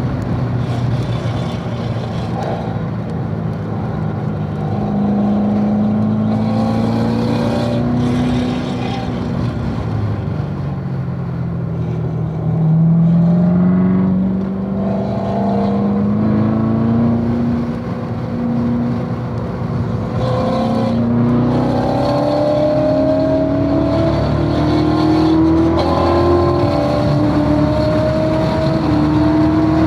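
C7 Corvette Z06's supercharged 6.2-litre V8 under hard track driving. Its pitch falls about a third of the way in as the car slows, then climbs again under acceleration through the second half. Wind and road noise run underneath.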